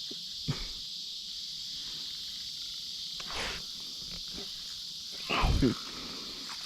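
Steady high-pitched buzzing of an insect chorus, with a brief louder sound about five seconds in.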